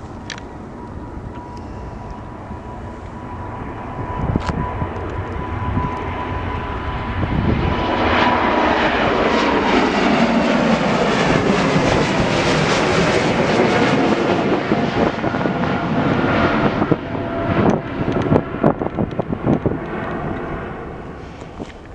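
Jet airliner passing close by: a steady engine whine swells, then its pitch sweeps downward as the aircraft goes past and the noise peaks. The noise turns choppy and uneven before fading away near the end.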